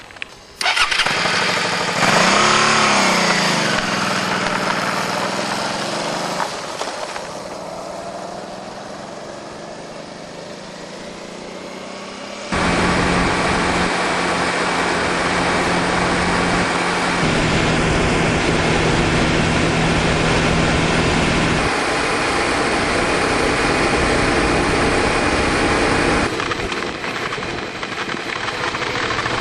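Motorcycle engine revving as the bike pulls away, its pitch rising and falling through the gears, then a steady engine note at cruising speed with wind rush. The sound jumps abruptly about twelve seconds in and again near the end.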